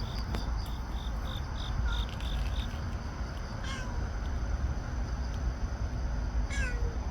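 A stray cat meowing: a faint meow about two seconds in, then two clearer meows that fall in pitch, one about halfway through and one near the end. Over the first few seconds a run of short high chirps repeats about three or four times a second, and a steady low rumble lies underneath throughout.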